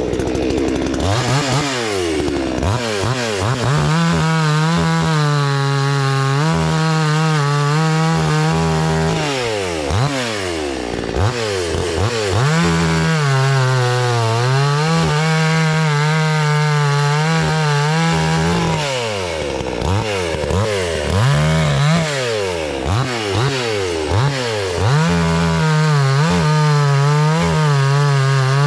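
Two-stroke gas chainsaw of about 60 cc cutting wood: held at full throttle with the pitch sagging under load in the cut, and revved up and let back to idle several times between cuts.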